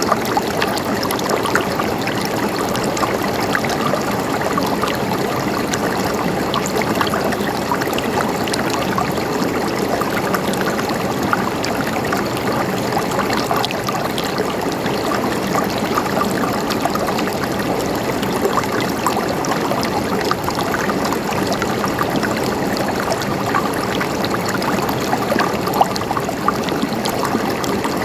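Mountain stream flowing steadily over rocks, a constant babbling and gurgling of water.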